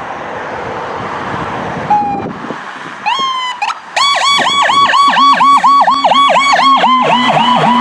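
A rushing noise for about two seconds, then a short beep and a rising electronic chirp. From about halfway, a toy emergency vehicle's electronic siren yelps fast, about four wails a second, with a second, lower siren tone joining a second later.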